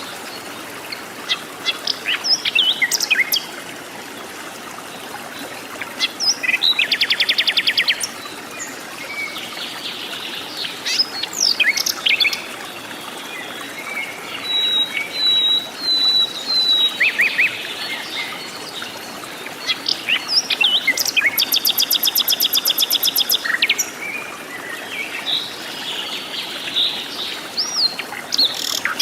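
Several forest birds calling and singing: scattered chirps and whistled notes, with two long, rapid trills, one about a quarter of the way in and another about three-quarters through, over a steady background hiss.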